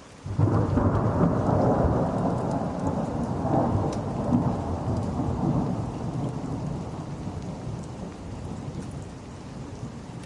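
Thunder breaking suddenly about half a second in over steady rain, then a long low rumble that slowly fades.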